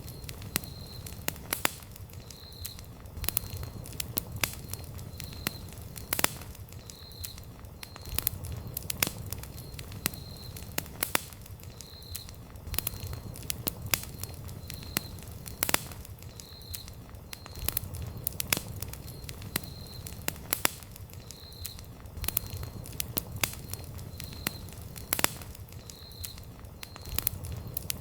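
Wood campfire crackling: frequent sharp pops and snaps over a low steady rumble of the flames. A faint high chirp repeats about every second and a half.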